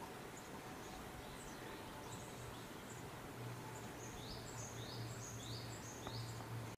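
Outdoor ambience with a small bird chirping in a quick series of short, high notes, about four a second in the second half, over a steady background hiss and a low hum.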